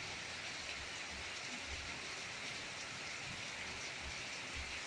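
Steady, even rain falling and pattering on surfaces, keeping the same pace throughout.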